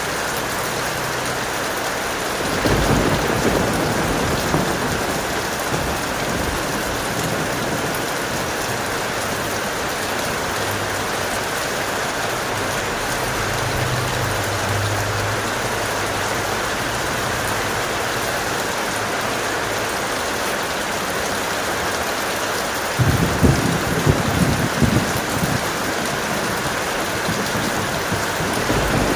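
Heavy rain falling steadily in a thunderstorm. Thunder rumbles low about three seconds in, and again more loudly for a few seconds near the end.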